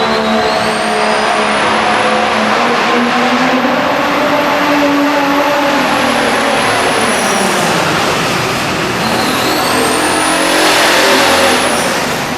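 Super stock diesel pull truck's engine running flat out under load, with a high whistle that rises and falls twice over the engine noise.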